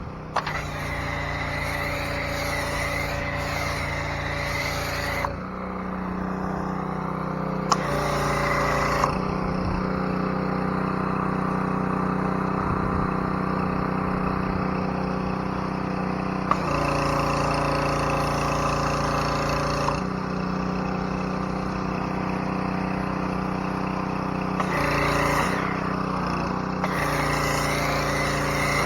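Small-engine pressure washer running steadily, with a spray hiss that starts and stops several times as the wand is triggered while it foams up a truck.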